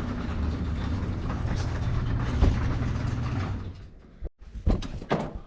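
Garage door opener running steadily as the door travels, then stopping a little over three and a half seconds in. A few sharp clicks and thumps follow.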